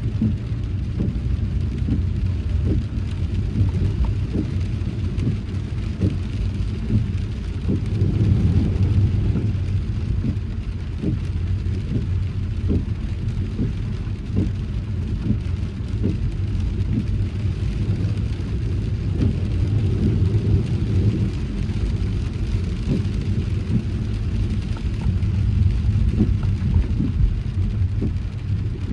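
Car driving in heavy rain: a steady low rumble from the road and engine, with raindrops ticking on the car.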